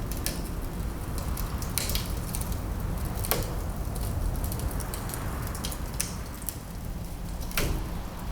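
Wood fire crackling, with several sharp pops scattered through, over a steady low rumble of winter wind.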